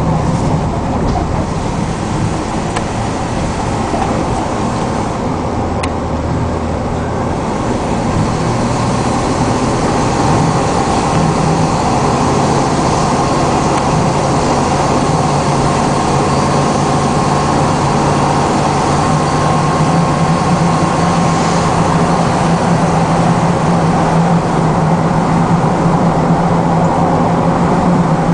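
1997 Chevy Cheyenne 3500 HD truck driving on the road, its 7.4-litre 454 V8 running steadily under road noise. The engine note climbs and grows slightly louder about ten seconds in as the truck picks up speed.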